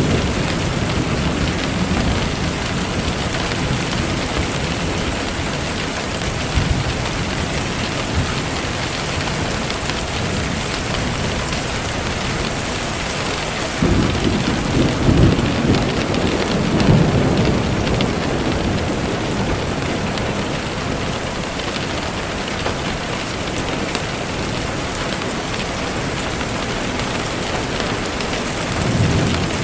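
Steady rain falling, with low rumbles of thunder swelling up around the middle and again briefly near the end.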